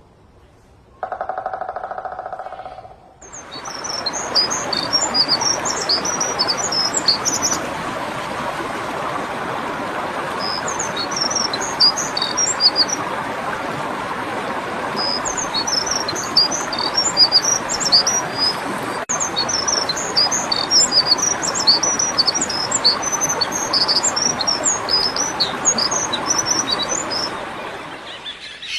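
Small birds chirping in quick, high-pitched clusters that come and go, over a steady background hiss. Near the start there is a short pitched tone lasting about two seconds.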